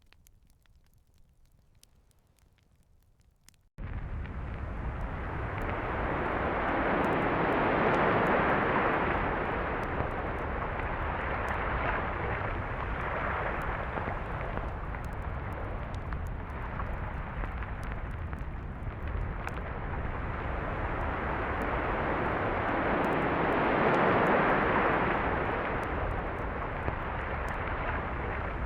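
Near silence for the first few seconds, then ocean surf begins suddenly as a steady wash of breaking waves. It swells louder twice, about a quarter of the way in and again near the end.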